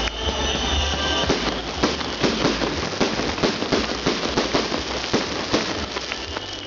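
Fireworks salute going off: a dense, irregular string of bangs and crackles, several a second, over a low rumble.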